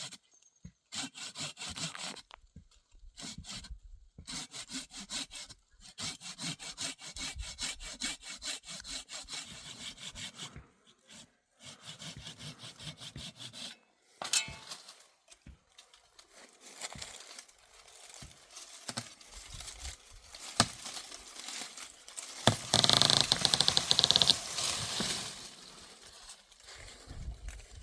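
Wood being sawn by hand, in runs of strokes broken by short pauses, with a louder, harsher rasping stretch about three-quarters of the way through.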